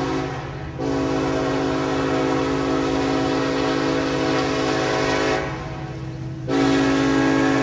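Diesel locomotive's air horn blowing a chord: a short blast at the start, a long blast of about four and a half seconds, a break of about a second, then another blast starting near the end. A steady low rumble of the locomotive runs underneath.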